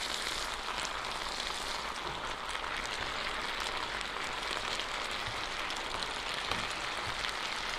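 Pasta, vegetables and sauce sizzling steadily in a hot electric skillet while being stirred, with a few faint clicks and scrapes of the utensil.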